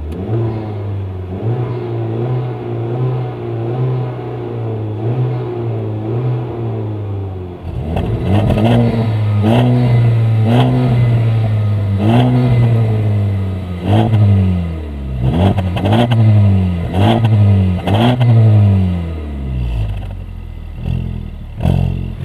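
2015 Honda Civic Type R's 2.0-litre turbocharged four-cylinder idling steadily just after start-up, then revved about a dozen times in short throttle blips, each rising and falling back to idle.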